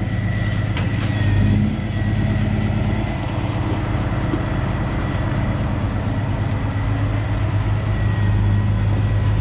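A large truck engine idling steadily with a low, even drone, and a faint high whine running through it.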